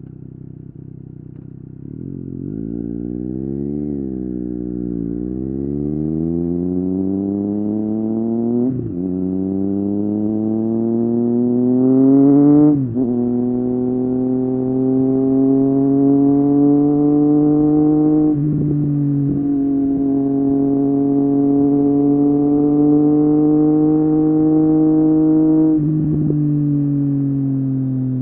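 Triumph Street Triple 765 RS inline three-cylinder engine through an Akrapovic exhaust, accelerating up through the gears from low revs. The pitch climbs in each gear and drops sharply at upshifts about 9, 13, 18 and 26 seconds in, settling into a steadier run after the third.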